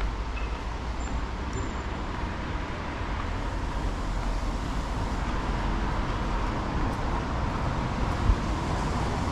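Steady city street traffic noise from passing vehicles, with a single low thump about eight seconds in.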